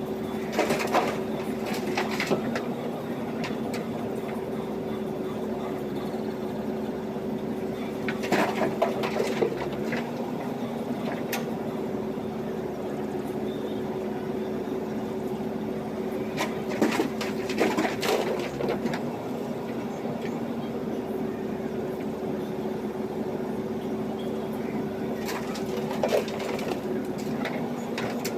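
JCB backhoe loader's diesel engine running at a steady pitch, with four short bursts of clanking and scraping spread through, from the bucket working gravel.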